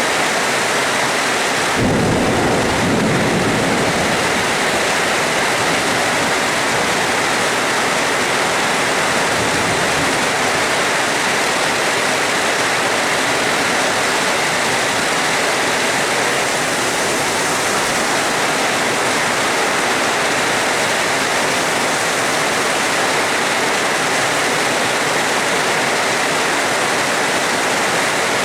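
Steady heavy rain, with a low rumble of thunder coming in about two seconds in and fading away over a few seconds, and a fainter rumble near ten seconds.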